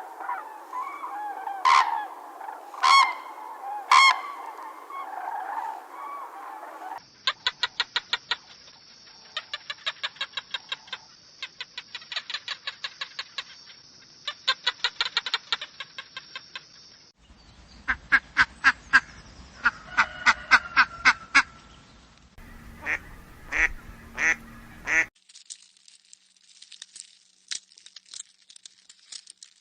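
A run of short animal-call recordings cut one after another: pitched honk-like calls first, then long rapid trains of clicking chatter, then fainter high-pitched pulses near the end.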